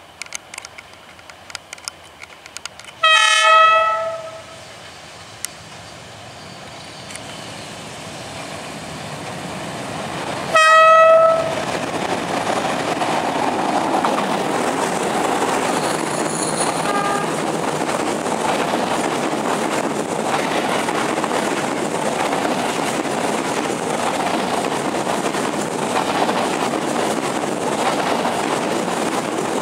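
A D19E diesel-electric locomotive's horn sounds two blasts, a longer one about three seconds in and a shorter one about eleven seconds in, as the train approaches. Then the passenger coaches roll past with a steady rush of wheels on rail and some clickety-clack.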